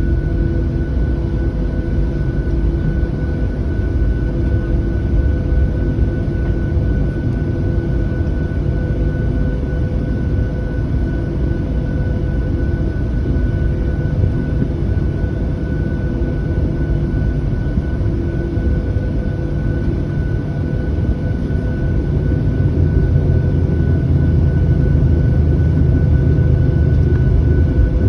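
Cabin noise inside a Boeing 737-700 with its engines running: a steady low rumble and hiss, with a thin constant whine over it. The low rumble grows slightly louder near the end.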